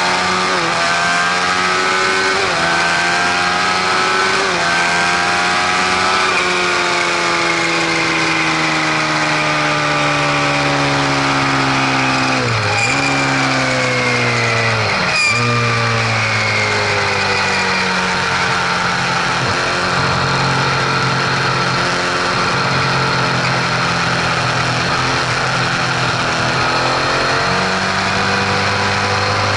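Car running with several pitched mechanical tones that slowly rise and fall in pitch together with engine and road speed, plus two quick dips in pitch near the middle. This is an unfamiliar mechanical noise that the owner takes for an abnormal sound.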